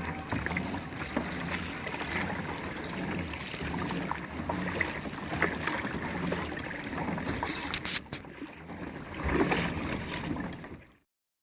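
Water and wind noise from a kayak out on the water: an even wash with small splashes and clicks, cutting off suddenly near the end.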